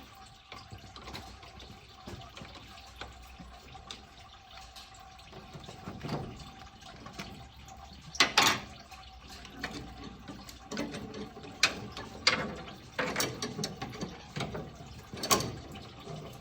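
Hand tools working on a car engine: scattered clicks, ratcheting and metal clanks, the sharpest knocks about eight seconds in and several more in the second half, over a faint steady hum.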